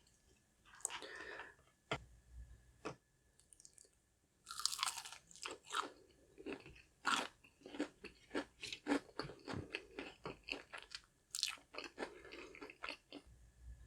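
Crunchy biting and chewing of a crispy fried flounder fish sandwich, close to the microphone. A loud crisp bite comes about four and a half seconds in, then a quick run of sharp crunching chews, several a second, with another crisp bite near the end.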